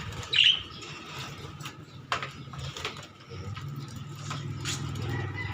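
A short high lovebird chirp about half a second in, then scattered sharp clicks and knocks of handling. A low steady hum comes in during the second half.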